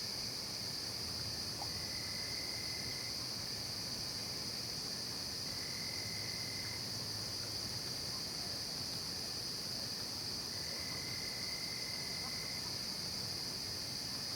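Night chorus of crickets and other insects: a steady, high-pitched shrill that does not let up, with a lower, separate trill joining in three times for a second or two each.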